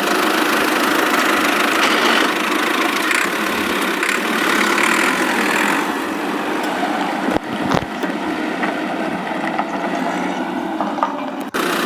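A small motor running steadily with a noisy mechanical whir, cutting out briefly about seven and a half seconds in and again near the end.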